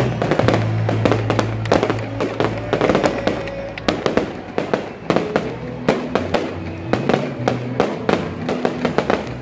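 Aerial fireworks shells bursting in a rapid, uneven series of sharp bangs, several a second, with music playing underneath.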